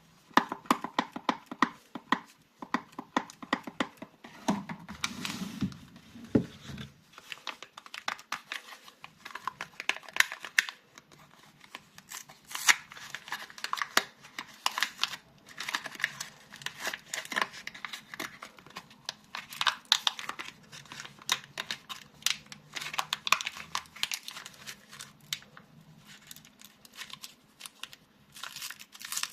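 Soap bar packaging being unwrapped by hand: wrappers crinkling and tearing in quick, crackly bursts.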